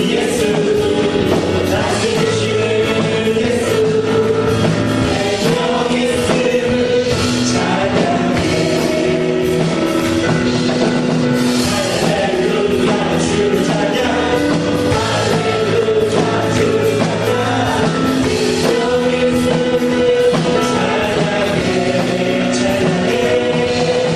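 A church praise band and singers performing a gospel worship song, with sustained sung notes over a steady beat.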